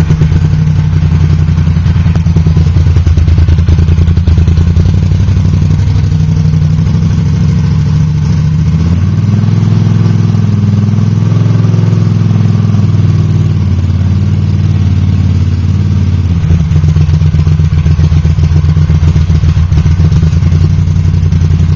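Honda CX500 V-twin running with its exhaust pipes removed, straight out of the open exhaust ports, just after a cold start near freezing. It idles loudly and steadily. About nine seconds in, the revs rise a little and hold for several seconds, then drop back to idle.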